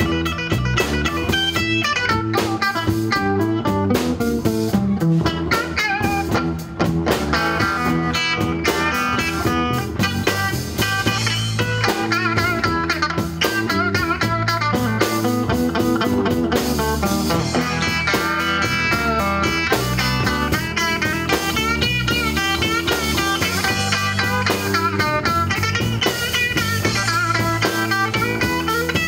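Rock band playing: electric guitar lines over bass and drum kit, with a bluesy feel.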